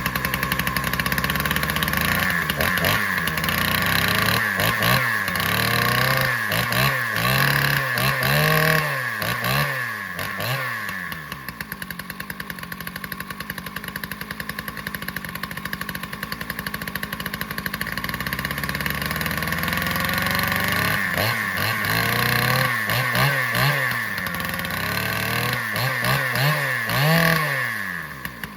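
Husqvarna 2100-series two-stroke chainsaw running, blipped up and down in repeated revs, settling to a steady idle midway, then revved again and dropping back near the end. It picks up cleanly off idle, which the owner takes as the low-speed jet still in good shape, though the idle sits a little high.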